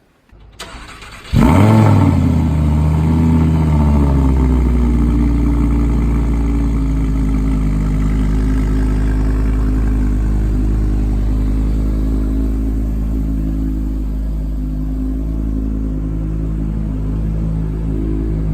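Audi R8 V10 RWS's V10 engine starting: a brief faint starter whir, then the engine catches about a second and a half in with a quick rev flare and settles into a steady fast idle whose pitch eases slowly lower, as on a cold start.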